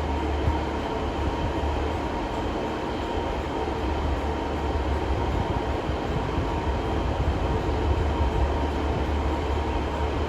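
Train running with a steady low rumble and a faint hum of held tones.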